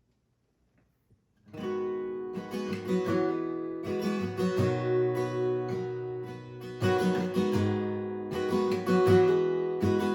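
Acoustic guitar strumming chords, starting about a second and a half in after a brief silence: the instrumental intro to a song.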